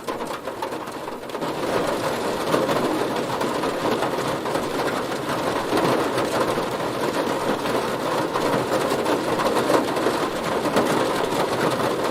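Heavy rain pattering on a car, a dense steady hiss of countless drop impacts that grows heavier about a second and a half in.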